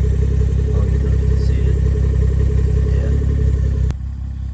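BMW 340i's B58 turbocharged inline-six running steadily at idle through a valved aftermarket muffler with its valves closed. Near the end the sound drops suddenly with a click.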